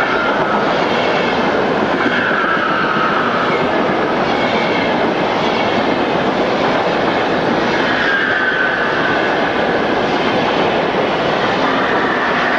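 Long-distance passenger train of blue-and-cream and red-and-cream coaches passing at speed: a loud, steady rush of wheels on rail, with a faint high ringing from the wheels that comes and goes.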